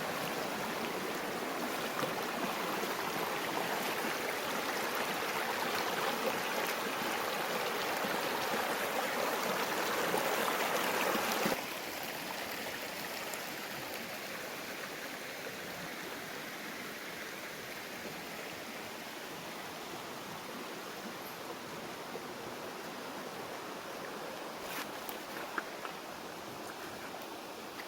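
Steady rushing water. About eleven seconds in it drops suddenly to a quieter, even rush, and a few light clicks come near the end.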